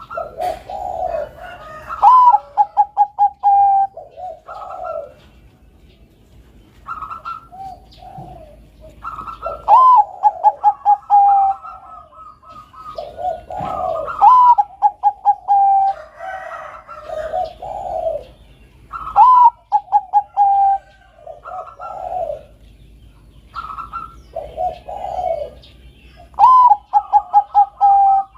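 Bangkok-type zebra dove (perkutut) singing its cooing song: phrases repeated about every four to five seconds, each opening on a rising high note and running into a quick string of short, even coos. Lower, slower coos fill the gaps between phrases.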